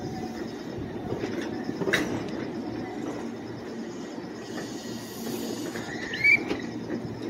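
Meitetsu electric train at the platform: steady low running noise, with a sharp click about two seconds in and a brief high squeal near the end.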